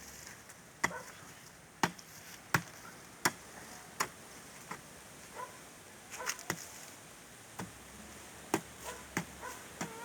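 Hoe blade striking into soil in repeated sharp chops, roughly one a second, digging planting holes.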